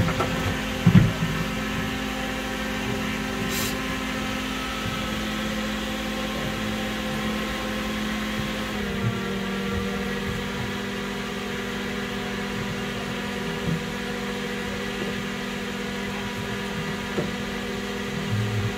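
The B-29's Wright R-3350 eighteen-cylinder radial engine (#3) running steadily just after startup, heard from inside the fuselage. Its note steps down slightly about nine seconds in as the rpm settles.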